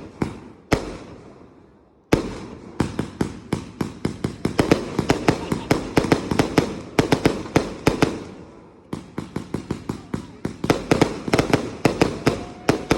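Fireworks and firecrackers going off in fast runs of sharp bangs, several a second. There is a short lull about two seconds in and another dip near nine seconds.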